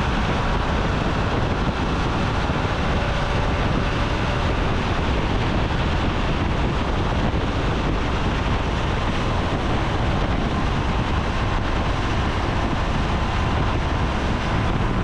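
Steady rush of wind over the helmet camera's microphone at over 100 mph on a 2017 Triumph Tiger 800 XCA, with a faint steady hum of the bike's three-cylinder engine beneath it.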